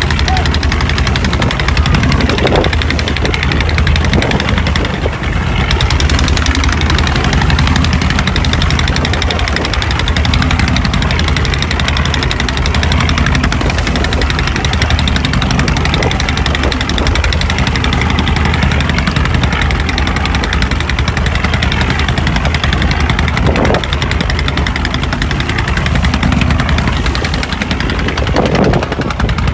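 Boat engine running steadily at close range, with a fast, even beat.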